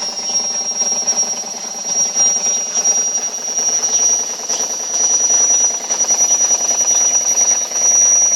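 Ariston washing machine running its cycle: a steady high whine with a fast, even knocking tick underneath, pulsing in loudness. The owner calls it a suspicious knock he cannot explain and says it should not be there.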